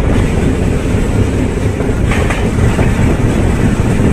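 Passenger train running, heard from its open doorway: a loud, steady rumble with the clatter of the wheels on the rails.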